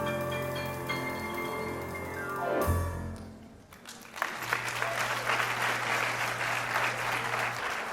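Instrumental stage music ends with a falling glide and a final low note about three seconds in. A moment later the audience breaks into applause.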